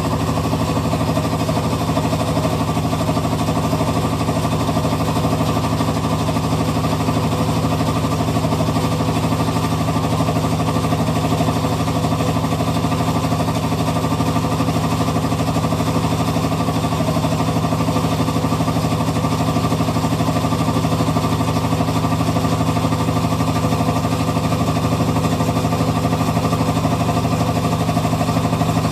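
Hitachi Beat Wash Slim washing machine running with a steady rattling noise, an abnormal sound that the owner takes as a sign the machine is near the end of its life.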